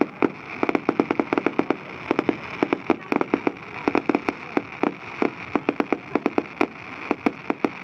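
Fireworks going off in a rapid, irregular volley of sharp bangs and pops, several a second.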